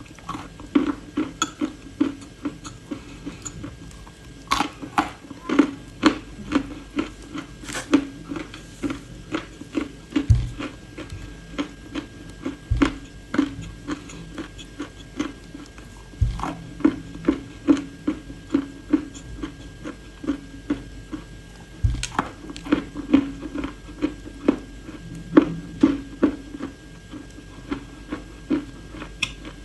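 Close-up crunching and chewing of dry edible clay: sharp crunches every second or so, with a few low thumps.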